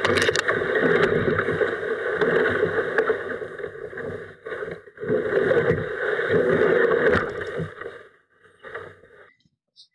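Rushing water around a kayak on a fast run, steady and loud, cutting off suddenly about nine seconds in.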